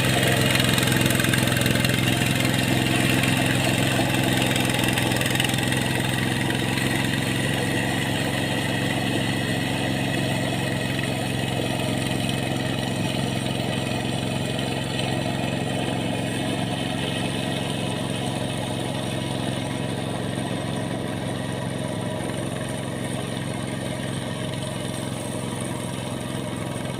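Engine of a rice-paddy hand tractor running steadily while plowing, slowly getting quieter.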